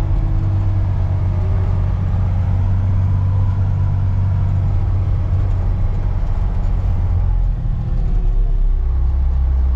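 Off-road haul truck's diesel engine running steadily under load as the truck crosses rough ground; about nine seconds in the engine note drops lower.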